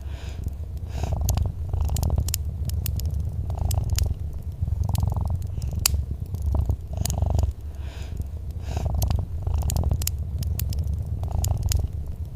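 Domestic cat purring in a steady low rumble that swells and fades with its breaths. Sharp crackles and pops from a wood fire sound throughout.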